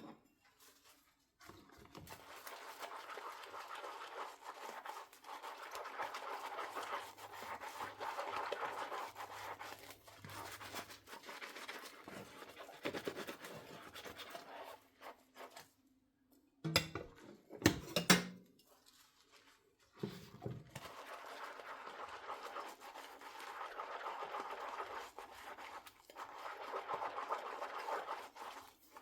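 Dishes being washed by hand: a sponge scrubbing a dish in long runs of rough, steady strokes. A little past the middle the scrubbing stops for a few sharp knocks of dishware being handled, then resumes.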